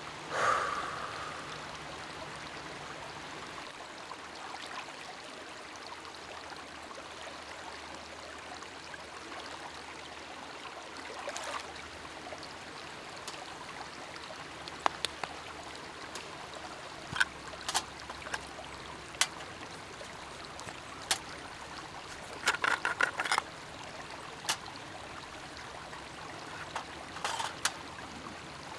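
Steady trickling, flowing water. From about halfway through, a scattered series of sharp clicks and taps, with a quick cluster of them near the end.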